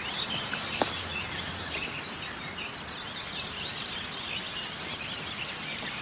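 Woodland birdsong: many small birds chirping and warbling at once over a steady hiss, with a single click just under a second in.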